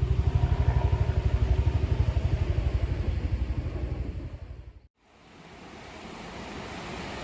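An engine running with a fast, even low pulse, fading away over the first few seconds and then cutting off. After a brief gap a steady rushing noise like wind fades in.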